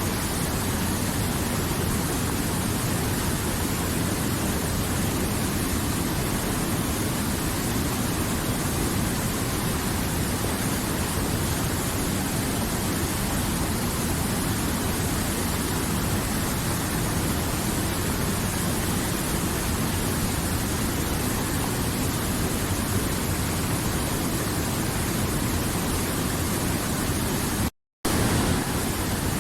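River water flowing in a steady rush, cutting out for a split second near the end.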